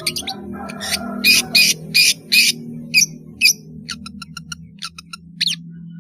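Long-tailed shrike (pentet) singing: a run of about five harsh notes in the first half, then quicker short, sharp notes, over a steady low hum.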